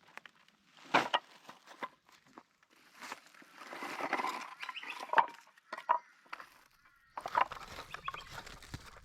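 Irregular knocks and clicks with rustling in between; the loudest knocks come about a second in and about five seconds in.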